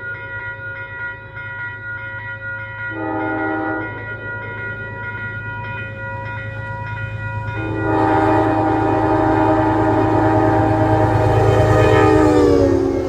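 Approaching train's locomotive horn: a short blast about three seconds in, then a long loud blast from about eight seconds in whose pitch drops near the end as the train passes, over a steady low engine rumble.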